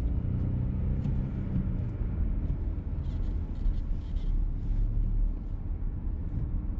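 Cabin noise of a VW T-Roc with a petrol engine being driven: a steady low rumble of engine and road, with the engine's hum stronger for the first two seconds.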